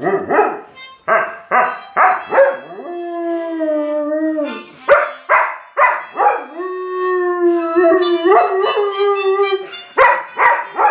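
A dog howling along to singing: long drawn-out howls that sag in pitch at their ends, broken up by short barks and yips.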